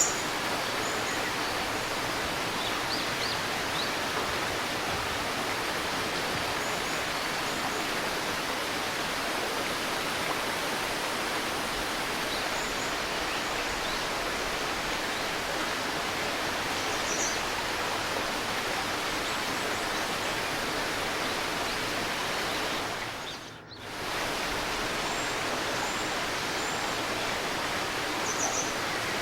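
A river babbling steadily, with a few faint, high bird chirps now and then. About three quarters of the way through, the water sound fades down briefly and comes back.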